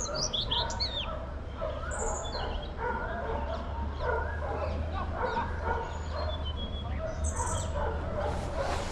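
Short repeated yapping calls like a dog's, mixed with high bird chirps and whistles, over a steady low rumble.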